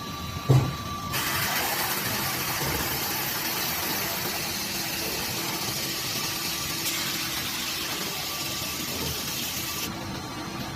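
Vacuum forming machine at work: a knock, then a steady rush of air that starts abruptly about a second in and cuts off suddenly near the end, over a low machine hum.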